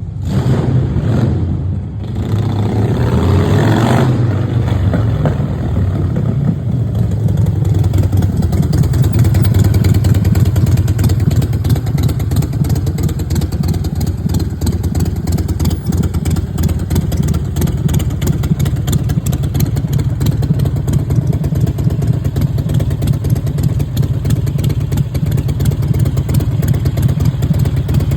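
Harley-Davidson Sportster Forty-Eight's air-cooled V-twin engine running; it is revved briefly a few seconds in, then settles into a steady idle.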